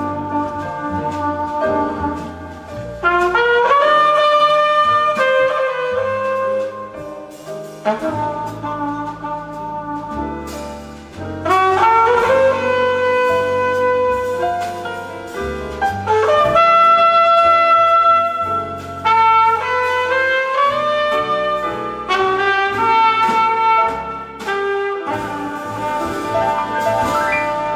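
Jazz ballad played by a small combo: a flugelhorn carries the melody in long held notes and sliding phrases over piano, double bass and drums.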